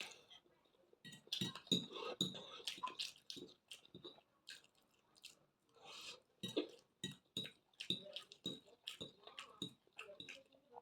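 Eating sounds: cutlery and dishes clinking, with chewing, as a run of many short sharp clicks and knocks, some of them ringing briefly.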